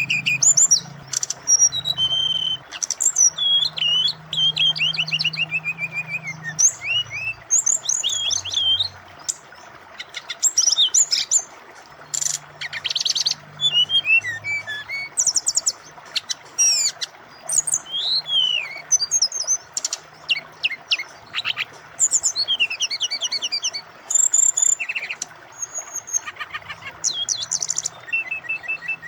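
Brown-chested jungle flycatcher (sikatan rimba dada coklat) singing a long, varied song of quick high chirps, trills and sliding whistles, over the steady rush of flowing water.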